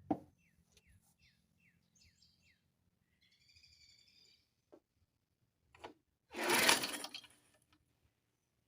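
A single pull on the recoil starter of a 1972 Briggs & Stratton mower engine, about a second of whirring cranking late on that does not catch; the owner takes the engine to be short of compression, perhaps from a stuck valve. Birds chirp in the first half, after a knock at the start.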